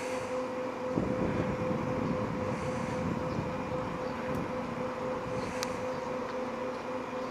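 Steady mechanical hum of a river cruise ship's engines and machinery, holding one low tone, with a low rumble that swells about a second in and fades over a couple of seconds, and a single sharp click later on.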